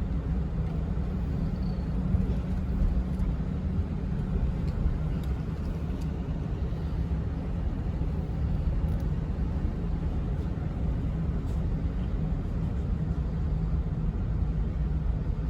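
Steady low rumble of a car in motion: engine and road noise with no change in speed.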